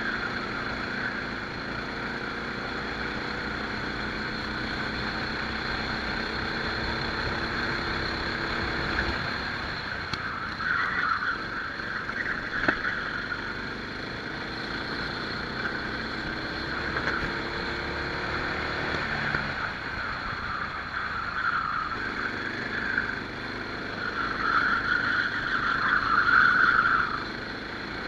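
Rental kart engine heard from on board during a race, its revs rising and falling repeatedly as the kart accelerates and slows, with louder rushing swells twice.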